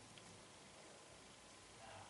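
Near silence: faint room tone with steady hiss.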